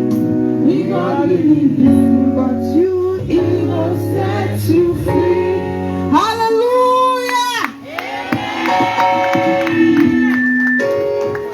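Gospel worship singing with guitar accompaniment: a sung melody over sustained chords, with a long held, wavering note a little past halfway.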